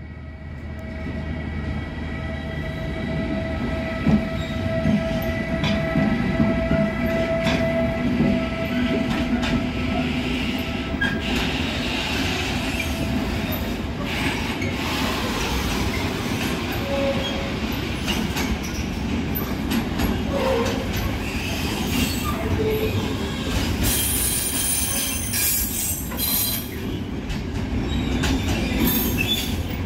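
Container train on the move: a steady low rumble with scattered knocks and clicks from the wagons, and a steady high wheel squeal through the first half.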